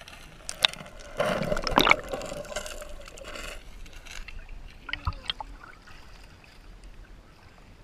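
Water splashing and sloshing around a canoe, with sharp knocks, loudest about a second in, then fading to a gurgle.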